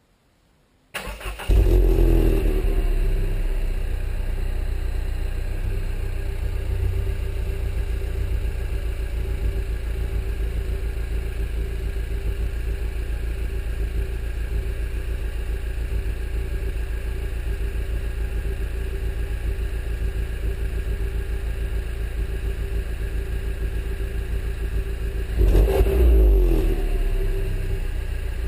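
Peugeot 208 GTi's 1.6-litre turbocharged four-cylinder starting through its stock exhaust. It cranks briefly about a second in, flares up, then settles into a steady idle, with one short blip of revs near the end.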